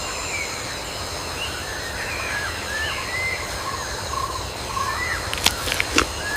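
Wild bird calls, a run of short chirps rising and falling in pitch, over a steady high insect drone and a background hiss. A few sharp clicks come near the end.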